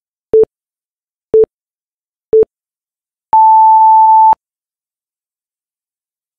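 Electronic interval timer beeping a countdown: three short low beeps a second apart, then one longer, higher beep lasting about a second that signals the start of a 20-second Tabata work interval.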